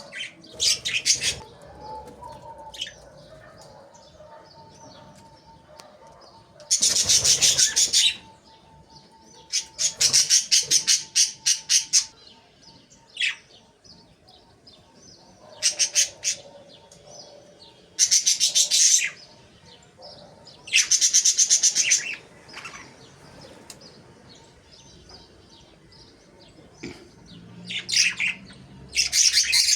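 Budgerigars chattering in bursts of rapid, high chirps, about eight bursts of one to two seconds each with quieter gaps between them.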